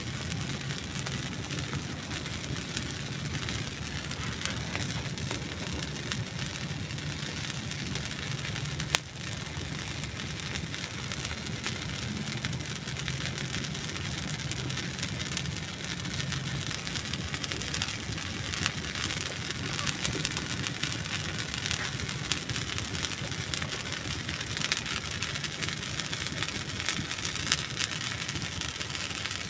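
Wood campfire crackling: a steady hiss with many small pops and snaps of burning dry wood, and one sharp, loud snap about nine seconds in.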